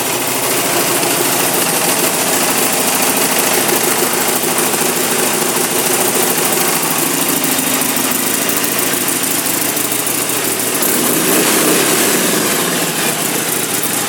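Stock 2014 Harley-Davidson Sportster Iron 883's air-cooled 883 cc V-twin engine running steadily at idle, swelling a little about eleven seconds in.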